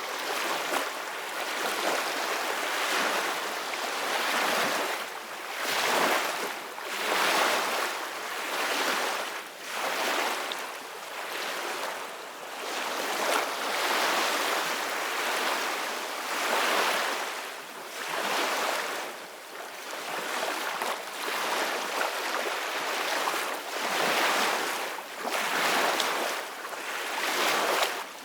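Ocean waves breaking and washing on a beach, the surf swelling and falling back in overlapping washes every second or two.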